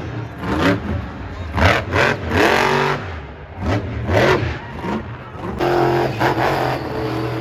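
Monster truck engine revving in repeated bursts, its pitch rising and falling, then held at a steadier high rev near the end.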